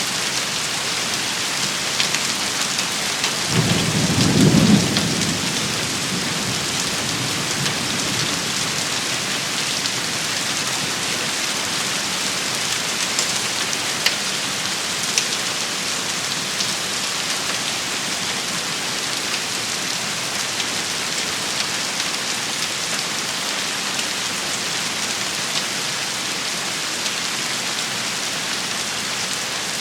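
Steady, dense shower of rain and hail pattering on surfaces, with a few sharp ticks of single hits. About three and a half seconds in there is a brief low rumble.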